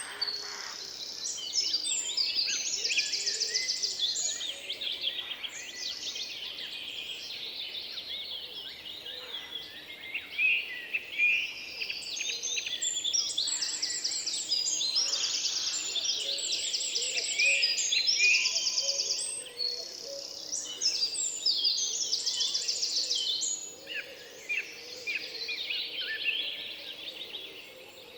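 Several songbirds singing at once, a dense chorus of fast trills, chirps and quickly repeated high notes.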